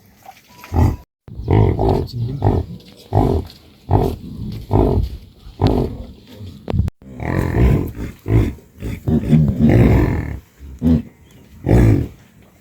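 Animal calls: a run of short, low calls, about one or two a second.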